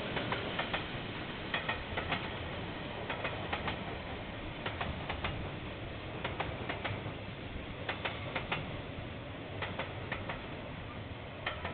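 Railway wagons rolling slowly past, their wheels clicking over the rail joints in close pairs every second or so over a steady rolling rumble.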